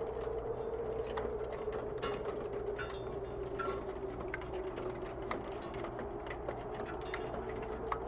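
Ice pellets ticking irregularly on a metal stove and a wooden cabin roof, some hits ringing as short metallic dings. Under them runs a steady low moaning tone that slowly wavers in pitch.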